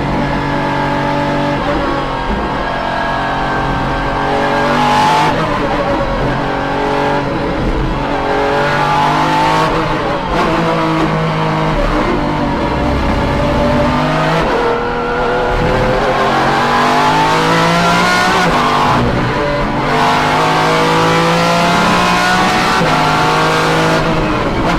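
Pagani Zonda R at speed: its AMG V12 pulls hard, with the straight-cut whine of its Xtrac six-speed sequential gearbox. The pitch climbs through each gear and drops back at a shift about every five seconds.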